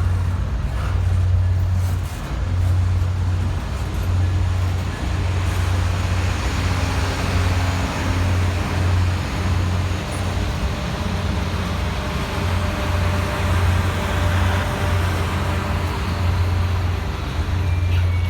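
Diesel locomotives of a departing train running with a steady, deep, pulsing drone, with rolling-train noise growing louder in the middle as the train moves out.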